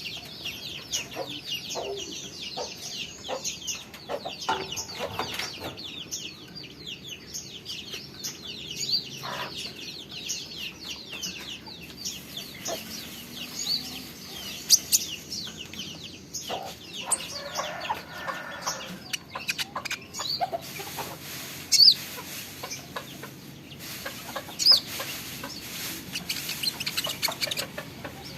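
Small caged songbird kept by Indonesian bird hobbyists as a 'burung ninja', singing a long run of rapid, high chirps and short trills, the fast continuous delivery hobbyists call 'trotolan', with a few louder sharp notes.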